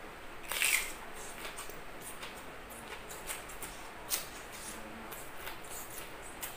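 Close-up eating sounds: a loud bite about half a second in, then chewing with many small wet mouth clicks and lip-smacks. A steady hiss of heavy rain runs underneath.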